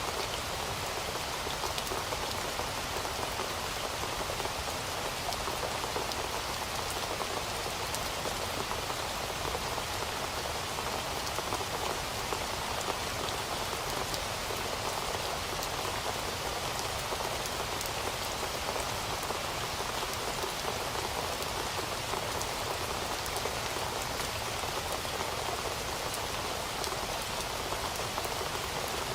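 Heavy rain falling steadily, a dense even patter of drops on a surface with no let-up or change.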